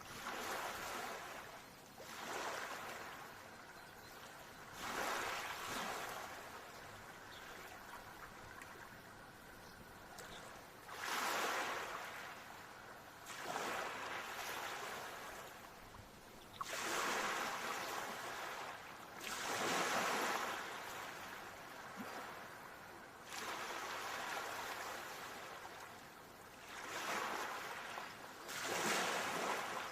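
Ocean waves washing in, with a surge of rushing surf every two to four seconds that swells and then fades back.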